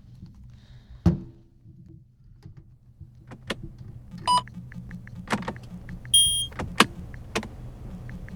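Designed sound effects of a sci-fi spacecraft cockpit: a steady low hum, a heavy thud about a second in, then a run of switch clicks with two short electronic beeps, one about halfway through and a higher one shortly after.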